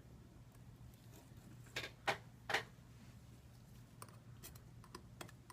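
Light clicks and taps from small parts and tools being handled: three sharper clicks about two seconds in, then a few softer ticks near the end, over a low steady hum.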